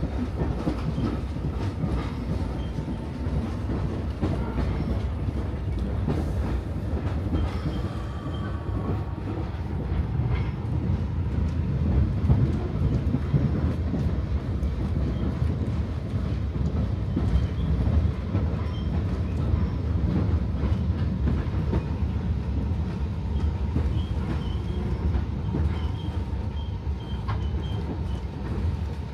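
Steady running rumble of a moving passenger train heard from inside the carriage, its wheels rolling on the rails.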